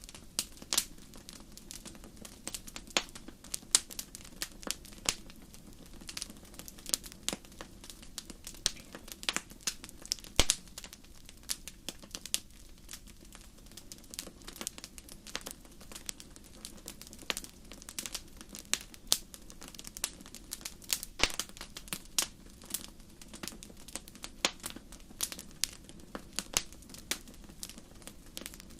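Wood fire crackling in a fireplace: irregular sharp pops and snaps, several a second, over a faint steady low background of the burning.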